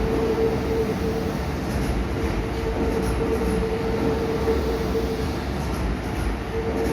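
Kintetsu 80000 series Hinotori electric limited express train running, a steady rail rumble with a sustained whine on top that drops out briefly near the end.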